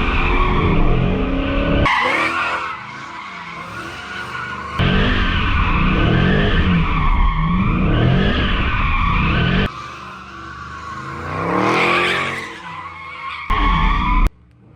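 Car engine revving up and down repeatedly while the tires spin and squeal. This comes as several short clips spliced together, so the sound changes abruptly a few times and cuts off just before the end.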